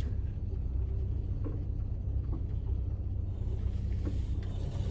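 VW Westfalia camper van's rear-mounted engine running at low speed, a steady low rumble heard from inside the cab.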